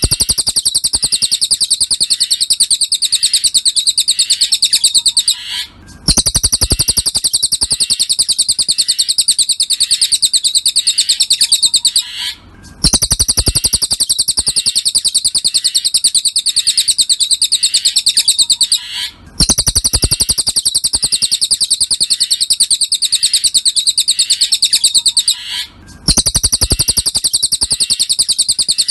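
Cililin bird song: a very fast, high-pitched chattering trill of rapid repeated notes, in phrases of about six seconds with short breaks between them at even intervals.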